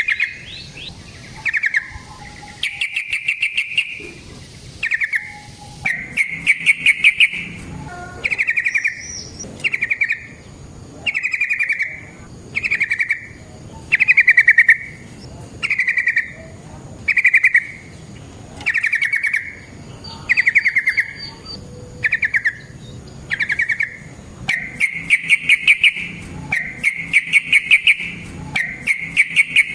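Yellow-vented bulbul (trucukan) singing: short, rapid bubbling phrases repeated about every one and a half seconds, running into longer phrases near the end.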